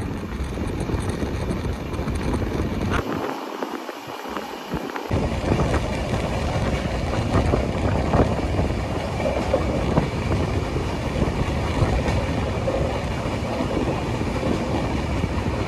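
Passenger train running along the track, heard from an open carriage window: a steady rattle and rumble of wheels on the rails with wind on the microphone. The sound changes abruptly about three and five seconds in.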